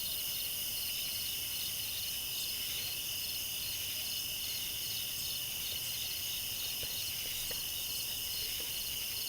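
Steady chorus of crickets and other insects, several high continuous drones with one rapidly pulsing trill among them.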